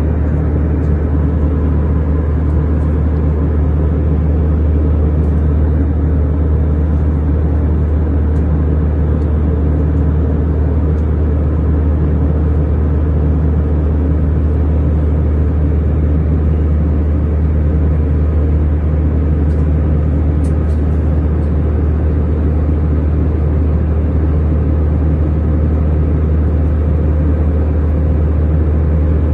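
Steady low drone of an airplane cabin in flight, engine and airflow noise heard from inside, unchanging throughout.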